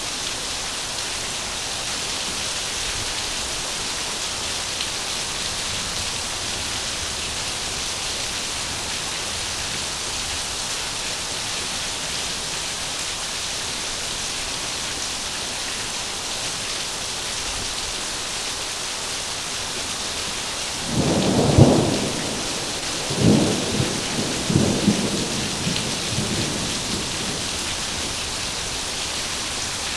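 Heavy rain falling steadily with a high hiss, and about two-thirds of the way through a peal of thunder: a loud crack followed by several rolling rumbles that fade over about six seconds.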